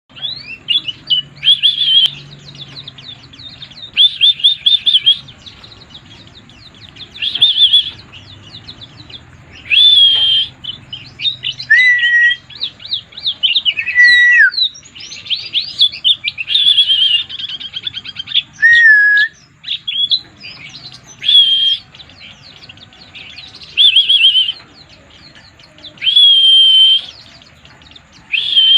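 A white-eye (pleci) singing in repeated high, fast, trilling bursts of about a second each, every two to three seconds, with a few sliding whistled notes among them. This is the excited, frenzied singing that bird keepers call 'mabuk'.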